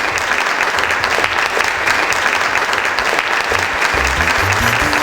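Crowd applauding steadily, with music and a bass line coming in near the end.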